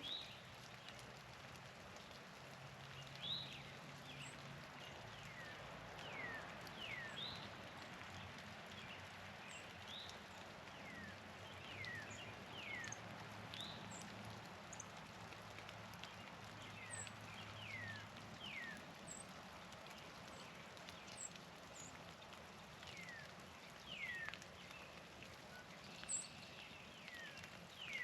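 Many short, down-slurred chirps from several small songbirds, scattered irregularly over a steady background hiss.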